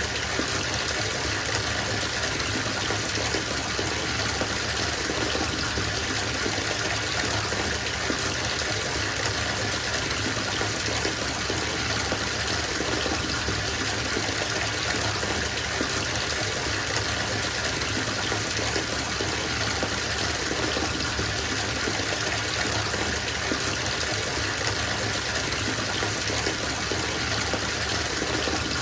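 Water running from a bathtub tap into a filling tub, a steady gushing splash that holds an even level.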